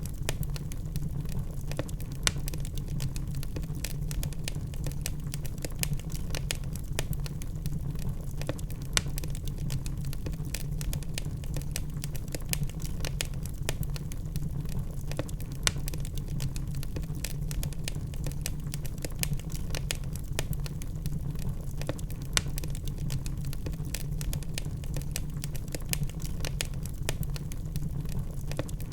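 Log fire crackling: a dense, irregular run of small sharp snaps and pops, a few louder than the rest, over a steady low rumble.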